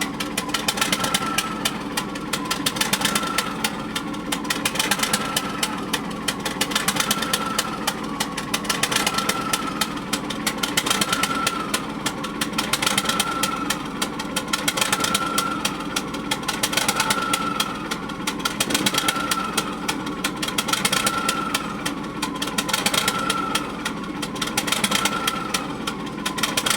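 Weichai engine running steadily with a fast, even clatter. A whine swells and fades about every two seconds over the running engine.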